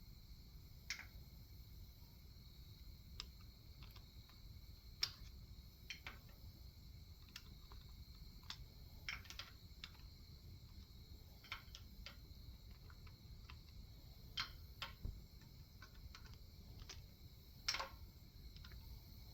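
Near silence broken by faint, irregular light clicks and taps, roughly one a second, the clearest a little before the end, over a steady low background rumble.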